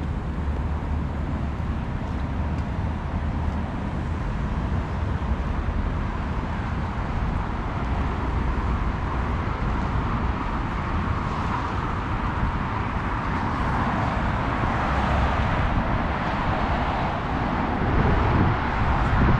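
Street traffic: a steady road rumble of passing cars, swelling louder in the last few seconds as a vehicle passes close by.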